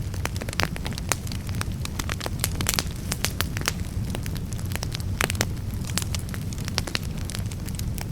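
Campfire crackling, with frequent irregular sharp pops and snaps over a steady low rumble.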